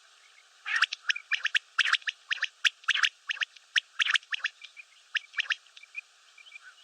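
Common quail calling: a quick, irregular run of short, sharp clicking notes lasting about five seconds, starting under a second in.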